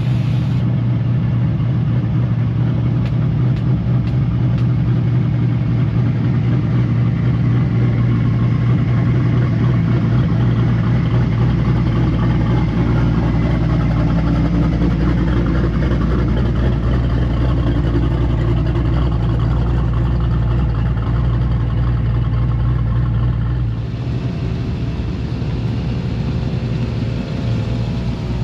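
A truck engine running steadily with a strong low rumble. About 24 s in, the deepest part of the rumble drops away and it gets a little quieter.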